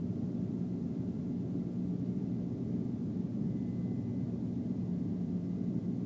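Airbus A330-300 engines at takeoff power heard from inside the passenger cabin: a steady low rumble with airflow hiss, not rising or falling.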